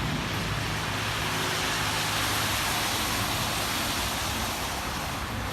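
Car tyres hissing on a rain-soaked road, swelling about two seconds in and easing off again as a vehicle passes, over steady rain and a low traffic hum.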